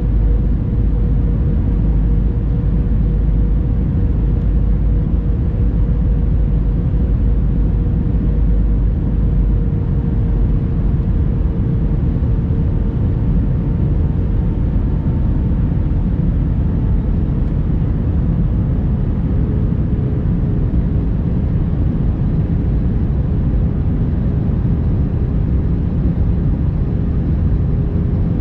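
Airbus A321-200 cabin noise: a steady, loud rumble of engines and airflow, with a faint steady tone that drifts slightly lower in pitch.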